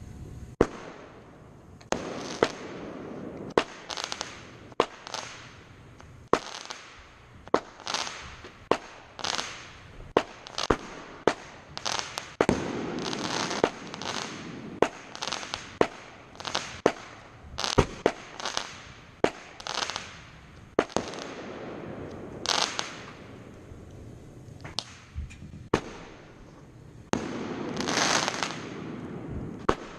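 Aerial fireworks bursting in quick succession, sharp booms about once or twice a second, many followed by long crackling, sizzling tails.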